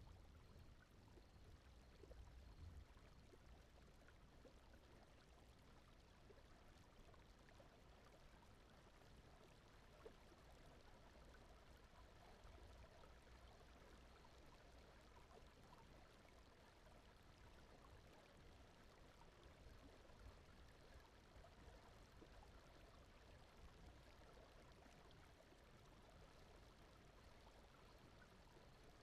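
Faint, steady brown noise with a soft flowing-water sound like a stream.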